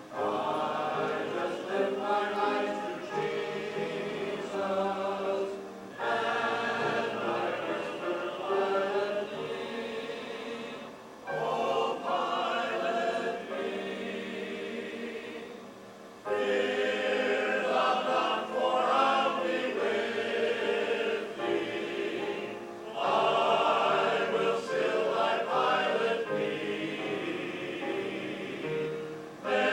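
Choir singing a hymn in phrases several voices strong, each phrase ending and the next starting sharply about every five to six seconds.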